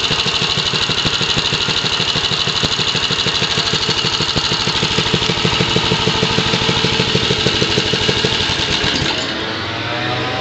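Vintage mini bike's 3.5 hp Briggs & Stratton single-cylinder four-stroke engine running steadily at idle with an even firing beat. A little before the end the beat stops and a different, smoother hum takes over.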